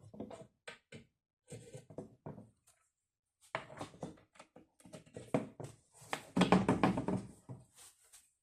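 Irregular knocks and clatter, as of hard objects being handled and set down, with a denser, louder run of knocks about six seconds in.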